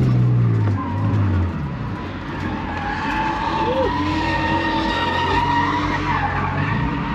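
E46 BMW drift car sliding with its engine running hard and its tyres squealing. The engine note drops in the first second or so, then holds steady through a long tyre squeal in the second half.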